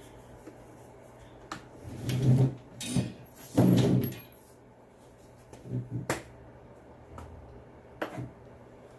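Plastic leaf blower case being handled and worked apart, with knocks, clicks and rattling clatter, louder in two stretches about two and three and a half seconds in, and sharp clicks later.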